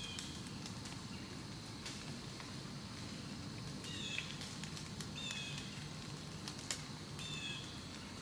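Woodland ambience: a bird repeating short, falling chirps every second or so, with a few sharp ticks and a steady low rumble underneath.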